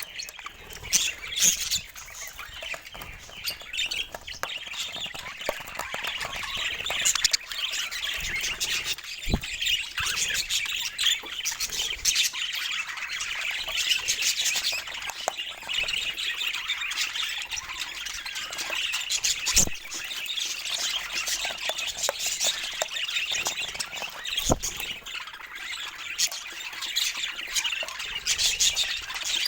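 Budgerigars chirping and chattering without a break, with a few sharp knocks.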